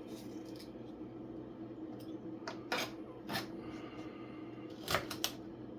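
Kitchen handling sounds: a few scattered clinks and knocks of dishes and utensils, two close together near the end, over a steady low hum.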